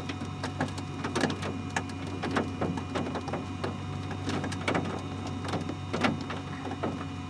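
Steady low hum of an idling vehicle heard from inside the cab, with irregular sharp ticks and taps a few times a second.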